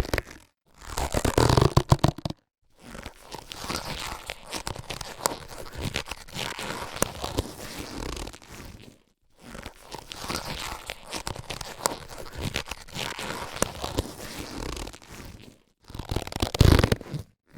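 Latex surgical gloves being handled: a long run of rubbing with many small clicks, broken by two short pauses, with louder bursts of handling about half a second in and again near the end.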